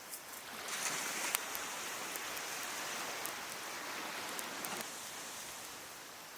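A sea wave washing up the beach, swelling about a second in and easing off near the end, with sharp crackles from a wood fire burning.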